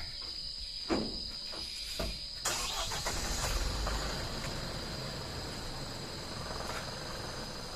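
Tata 1512 truck's diesel engine starting about two and a half seconds in, then running steadily, after two faint knocks. A steady high cricket chirring goes on underneath.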